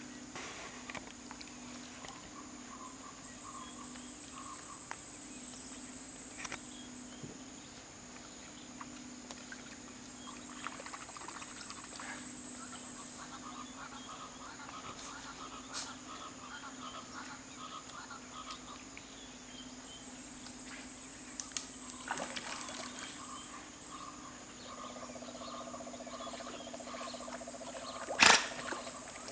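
Steady chorus of insects and frogs with trains of pulsed calls, broken by a few light clicks and one sharp knock near the end.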